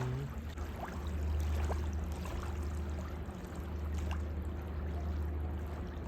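Steady low drone of a passing river ship's engine.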